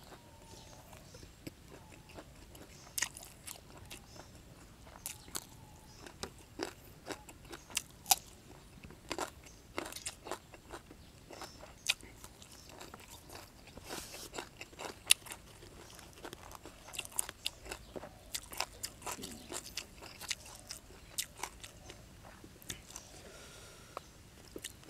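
Close-miked eating sounds: a man chewing and biting mouthfuls of sticky rice and raw beef dipped in sauce, with wet mouth clicks and crunchy bites at irregular intervals.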